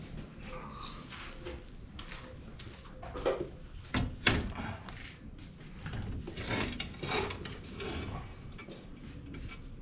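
Irregular knocks, clinks and scrapes of metal parts and tools being handled during mechanical work on the four-wheeler's drivetrain, with a few louder knocks about three to four seconds in.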